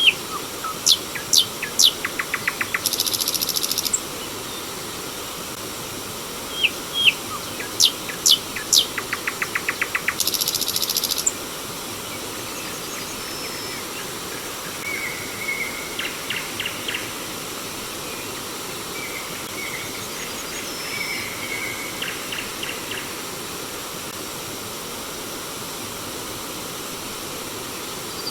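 Stream water flowing steadily, with a songbird singing over it: two loud phrases of short sharp notes, each ending in a fast buzzy trill, in the first half, then fainter, softer calls.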